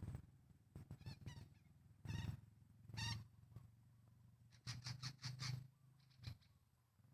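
A group of Sumatran betet parakeets calling: scattered short calls, then a quick run of about five notes around five seconds in.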